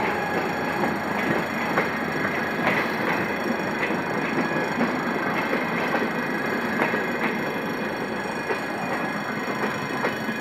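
Diesel-hauled passenger coaches rolling past at close range over a level crossing, with a steady rumble and irregular clacks from the wheels over rail joints.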